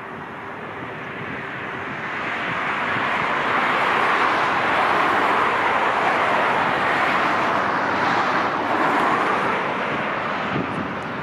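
Jet airliner passing close, its engine noise swelling over the first few seconds, holding loudest through the middle and easing a little near the end.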